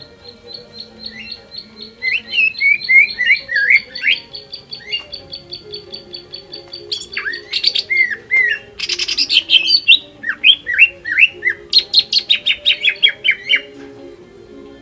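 Cucak ijo (green leafbird) singing a fast, varied song. It mixes a quick run of high repeated ticks, downward-sliding whistled notes, a harsh scratchy burst in the middle and a rapid slightly falling trill near the end.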